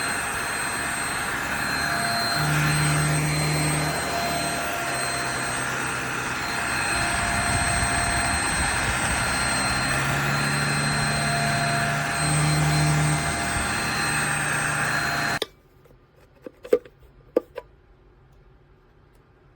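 JPHYLL Ultra-UVC-K16 handheld mattress vacuum running steadily with a high whine, its motor note shifting a little, then switched off abruptly about fifteen seconds in. A couple of light clicks follow.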